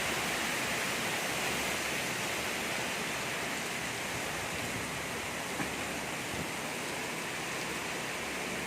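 Heavy rain pouring down in a strong wind, an even, unbroken hiss.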